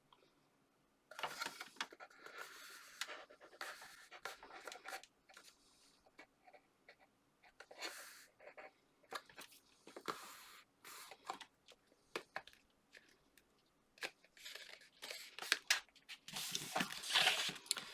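Scored white card being handled and pressed together along a glued tab, with irregular rustles, scrapes and small taps that get louder near the end.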